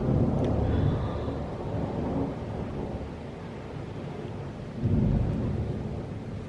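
Thunder rumbling, a low roll that is loudest at the start and swells again about five seconds in, over steady rain.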